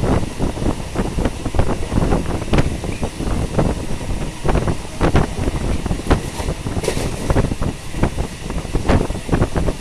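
Electric suburban local train running along the line: a steady rumble with wind on the microphone and frequent irregular clacks and rattles.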